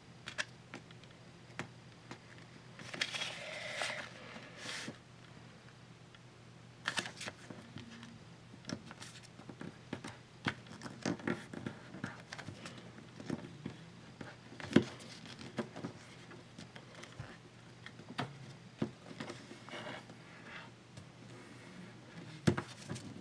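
A sheet of paper being folded and creased by hand: scattered rustles, crinkles and small taps, with a longer rustle about three seconds in and one sharper tick near the middle.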